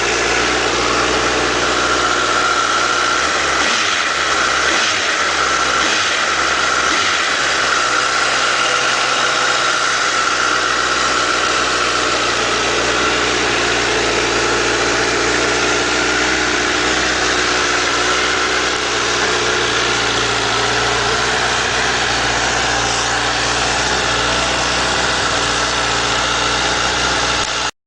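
2008 Honda CBR1000RR Fireblade's inline-four engine idling steadily. The sound cuts off abruptly near the end.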